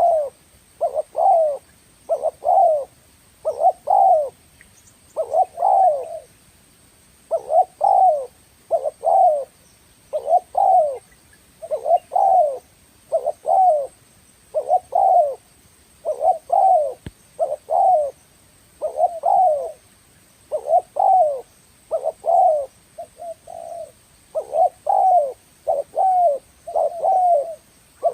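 Spotted dove cooing: a long run of short, low, falling coo notes, mostly in quick pairs, repeating about once a second.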